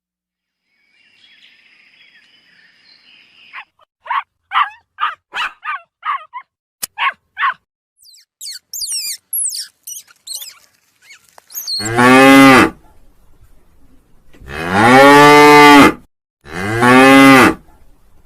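A cow mooing: three long, loud moos, each rising and falling in pitch, starting about twelve seconds in. They are preceded by a quick run of short pitched calls and then a few seconds of high, fast chirping.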